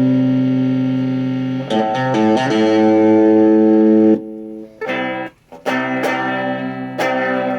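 Electric guitar strumming chords and letting them ring. The sound cuts off suddenly about four seconds in, then a few shorter strummed chords follow.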